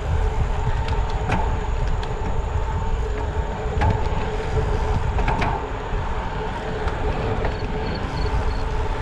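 Riding noise from a bicycle on the road: wind rumbling on the microphone under a steady hum, with a few sharp clicks about a second and a half, four and five seconds in.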